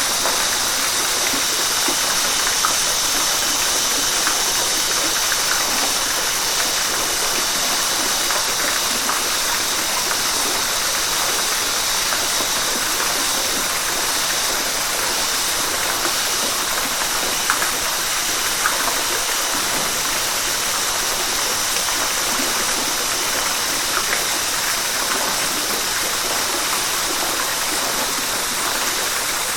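River water rushing and splashing steadily over rocks, with small splashes flecking the flow.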